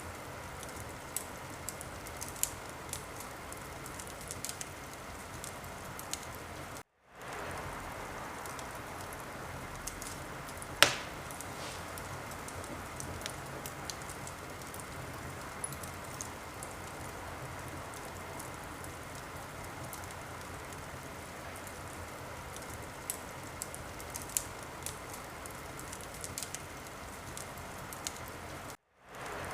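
Fire crackling in a fireplace: a steady hiss with scattered small pops and one sharp, much louder pop about eleven seconds in. The sound cuts out for a moment twice, around seven seconds in and near the end.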